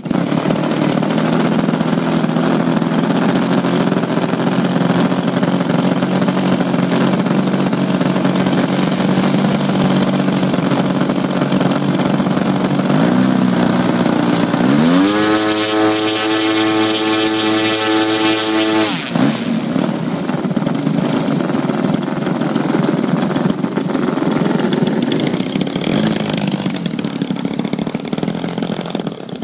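Engine running on test at a steady speed, then revved up sharply about halfway through, held at a high pitch for about four seconds, and throttled back down.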